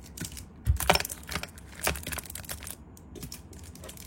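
Metal Zippo lighters being handled: a series of sharp metallic clinks and clicks, the loudest cluster about a second in.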